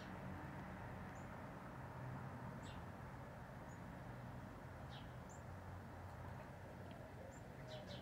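Faint, short high bird chirps about once a second, some sliding sharply downward, over a steady low background hum.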